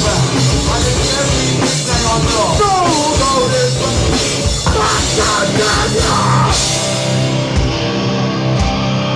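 Hardcore band playing live: distorted electric guitars with sliding notes over a drum kit. About six and a half seconds in, the drums stop and a guitar chord rings on alone.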